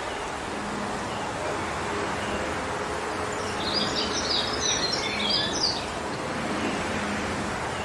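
Wind blowing steadily through forest trees, an even rushing. From about three and a half to six seconds in, a small bird chirps in a quick, high twittering run.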